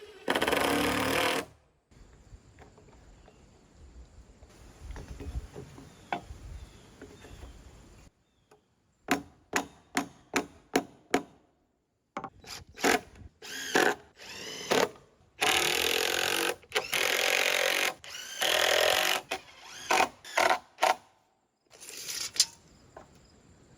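Cordless power drill driving screws into deck framing in several runs of a second or two, with a quick series of short sharp knocks about ten seconds in.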